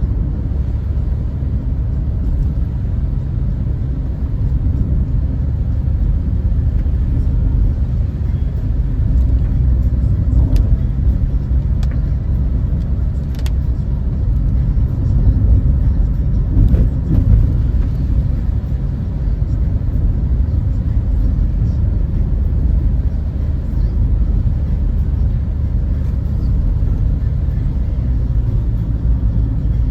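Steady low rumble of a car driving, heard from inside the cabin: tyre and engine noise at cruising speed, with a few faint ticks partway through.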